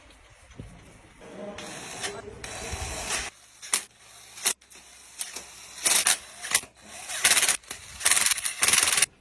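Ratchet wrench clicking in quick runs as bolts are run down on the crankshaft bearing caps of a Mercedes 313 CDI engine, the loudest runs in the last three seconds.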